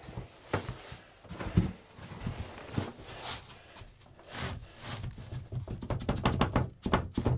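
Irregular knocks and thumps of wooden cabin roof panels being handled and set into place, with a quick rattle of clicks near the end.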